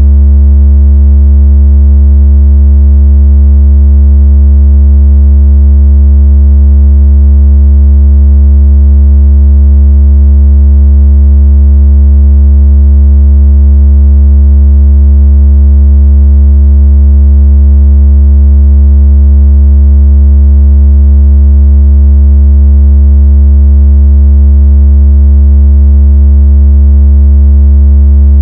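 A steady, very loud, deep electronic tone with faint higher overtones, unchanging throughout: a generated bass tone for shaking water out of a phone speaker, or for imitating a phone's strong vibration.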